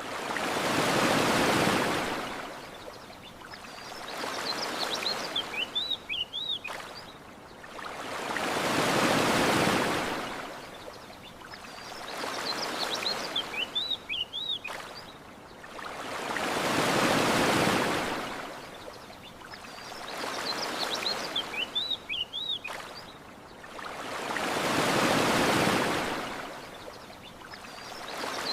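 Ocean waves washing onto a shore, a swell rising and falling about every four seconds. Short high bird chirps come in the lulls between waves.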